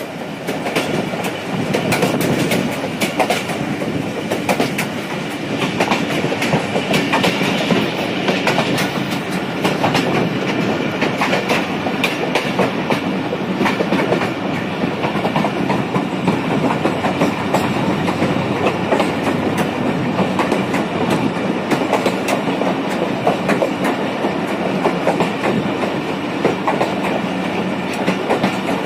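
Jaffar Express passenger train running along the track, heard from beside an open coach window: a steady rumble of the moving coaches with frequent sharp wheel clicks, the clickety-clack of the wheels over the rail joints.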